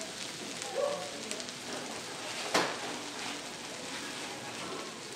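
Potato noodle pancake sizzling in oil on a flat griddle, with small crackles throughout. A metal spatula strikes and scrapes the griddle as it cuts the pancake, giving one sharp clack about two and a half seconds in that is the loudest sound.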